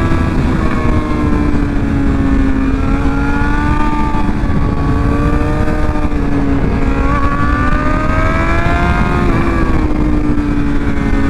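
Motorcycle engine running under load while riding, over a steady rush of wind noise. The engine note climbs about two and a half seconds in, eases off, then climbs again from about seven seconds and drops back near nine seconds.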